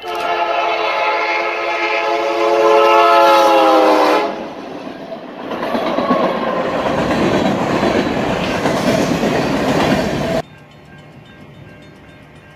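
Freight locomotive's multi-chime air horn sounding one long blast that drops slightly in pitch near its end as the engine passes. Then comes the steady rumble and clatter of freight cars, refrigerated boxcars among them, rolling by. The sound cuts off abruptly about ten seconds in to a low, steady background.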